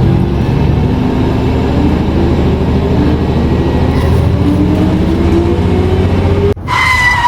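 Car engine sound effect accelerating, its pitch climbing twice as if shifting up through gears, then cutting off abruptly near the end, where a steady high-pitched tone begins.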